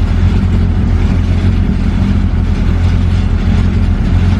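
A car engine idling steadily close by, with a loud, even low drone that does not rev.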